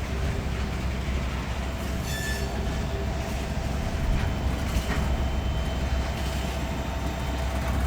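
Freight train moving slowly during switching: a steady low rumble of rolling cars, a brief high wheel squeal about two seconds in, and a few faint knocks later.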